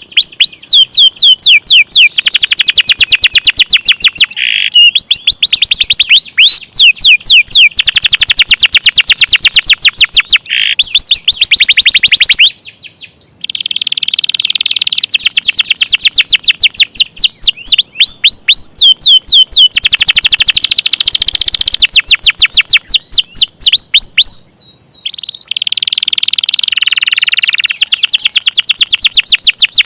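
Domestic canary singing in long, fast rolls of rapidly repeated high notes, loud and nearly continuous, with short breaks about 13 and 25 seconds in.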